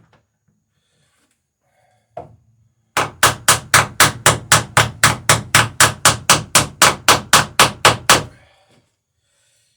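Hammer driving a rivet through a wooden boat's planking: a single light tap, then a fast, even run of about twenty blows, some four a second, lasting about five seconds and stopping abruptly.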